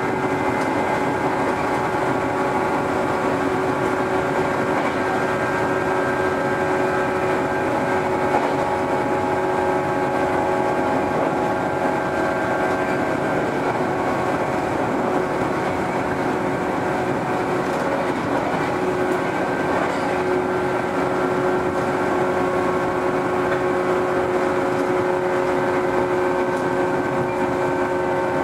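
413 series electric multiple unit running, heard from inside the car: a steady hum of several held tones over the even noise of the wheels on the rails.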